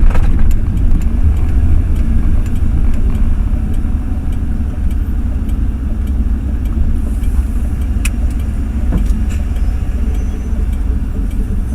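Ford F-350 pickup truck driving, heard from inside the cab: a steady low engine and road rumble, with a few faint clicks.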